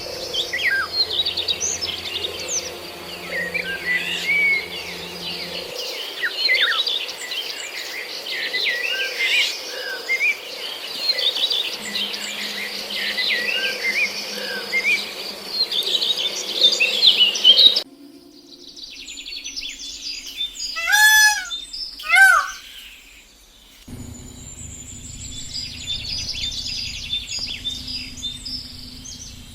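Birds calling: a dense chorus of many short chirps and whistles, which breaks off suddenly; then two loud single calls about a second apart, followed by more chirping from other birds.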